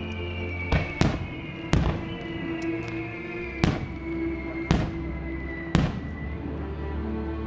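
Aerial fireworks shells bursting: six sharp bangs, irregularly spaced in the first six seconds, each trailing off in an echo. Music with held notes plays underneath throughout.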